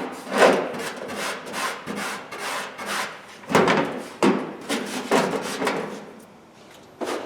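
Hand work on an old Craftsman toolbox: irregular rubbing and scraping strokes with a few sharper knocks, dying down near the end before one last knock.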